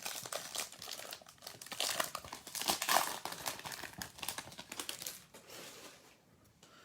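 Plastic wrapper of a trading card pack being torn open and crinkled by hand, a dense crackling that is loudest midway and dies away about six seconds in.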